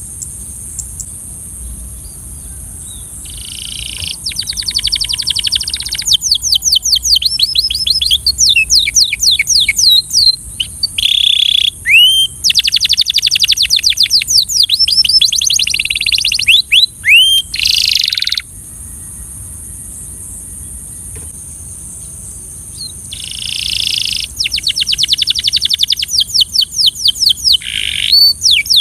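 Belgian canary singing in bouts of rapid trills and fast runs of repeated notes, with pauses of a few seconds between phrases. A steady high hiss runs underneath.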